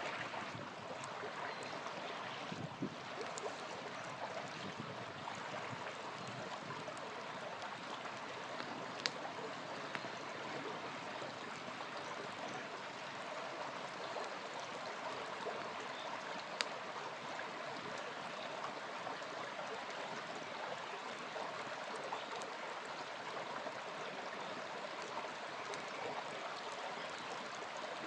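A small river flowing steadily, with a campfire giving a few sharp crackles and pops over it, the loudest a little after 9 seconds in and again around 16 seconds.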